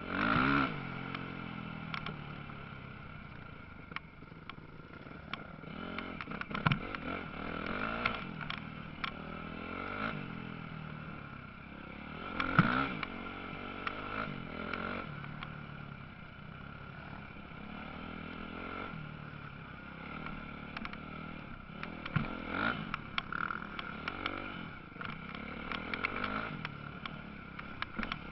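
Motocross motorcycles racing on a dirt track, engines revving up and dropping back as riders pass, with louder passes near the start, about a third of the way in, and again later on.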